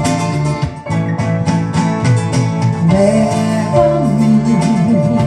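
Acoustic guitar strumming a gospel song between sung lines, with held notes and a melody line sliding up and down underneath.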